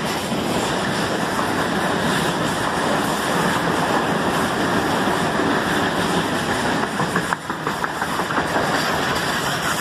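Electric commuter trains running along the station tracks: a steady rumble of steel wheels on rails, with a run of sharp clicks from the wheels crossing rail joints about seven and a half seconds in.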